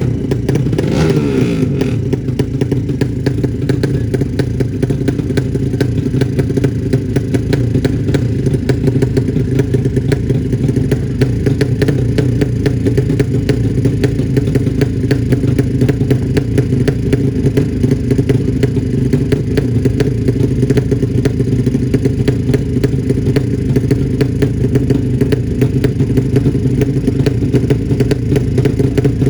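200cc drag-racing motorcycle engine running. Its pitch sweeps down from a rev in the first second or so, then it holds a steady idle with a rapid, even exhaust beat.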